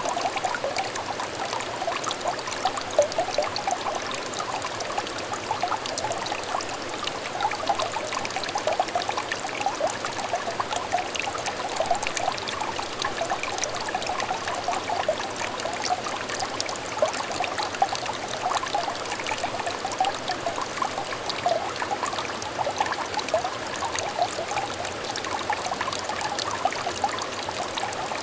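Shallow stream water trickling and burbling steadily, a constant run of small splashes and bubbling with no breaks.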